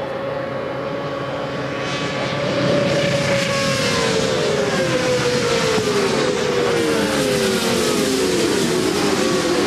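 A pack of 400 cc racing motorcycles going past at full throttle. At first one engine holds a steady note. From about two seconds in, several more engines get louder and their pitches fall and overlap as the bikes pass one after another.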